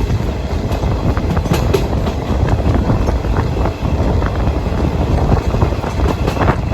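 Passenger train running at speed: a steady loud rumble of wheels on the track, with many quick clicks and knocks from the rail joints.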